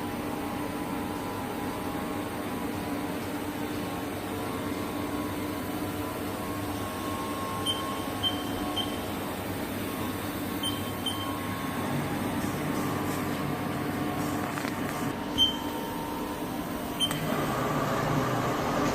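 Haas TL-3B CNC lathe running with a steady mechanical hum, broken by a few short high beeps in the middle; near the end the sound grows louder and fuller.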